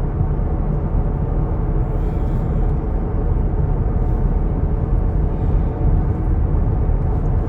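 Steady road and engine noise heard from inside a moving vehicle's cabin: a continuous low rumble of tyres and drivetrain while driving on the highway.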